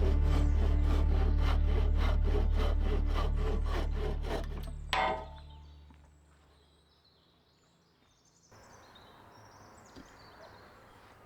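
Handsaw cutting scrap wood in quick, even strokes of about four a second over a low steady hum. The strokes fade out about four to five seconds in, ending with one sharp crack.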